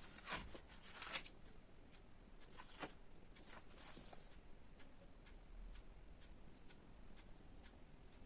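Faint clicks and short rustles of small objects being handled, a few louder ones in the first second or so.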